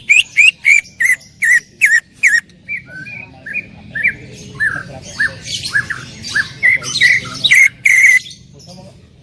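Green leafbird (cucak ijo) singing loudly: a fast volley of sharp notes, about four a second, then a run of varied whistled notes that stops shortly before the end.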